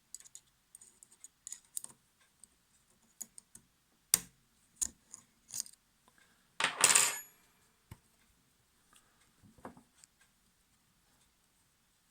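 Small metal parts and tools clicking and clinking against each other in an irregular run of sharp taps, with one louder, longer metallic rattle a little past halfway.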